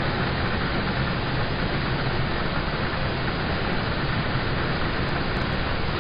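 Steady rain on a car, heard from inside the cabin: an even hiss with a low rumble underneath.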